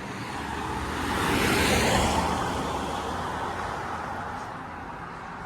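A car passing by on a wet road: a tyre hiss that swells to a peak about two seconds in and then fades away, over a steady background hiss.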